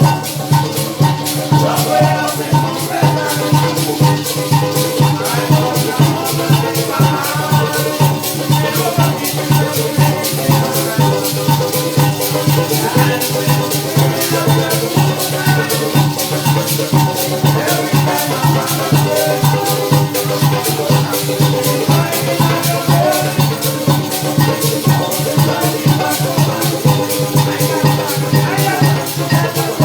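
Live parang music: maracas (shak-shak) shaken in a fast, steady rhythm over a steady bass note and several pitched instruments.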